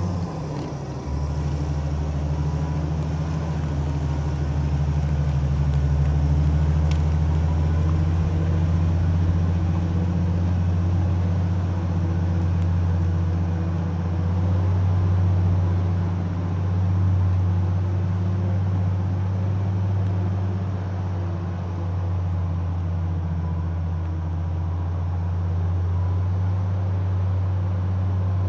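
Heavy diesel engine of logging equipment running steadily with a low, even drone, shifting slightly in pitch about a second in.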